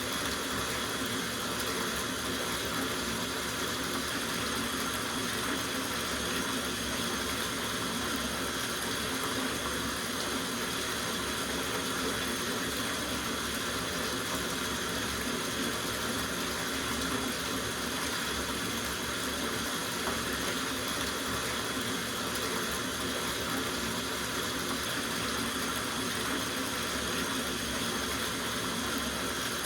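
Tap water running steadily into a soaking bathtub, a constant even rush with no breaks.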